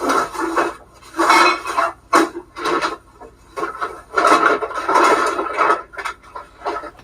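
A person's heavy, rasping breathing in uneven, loud breaths, laboured from bending over.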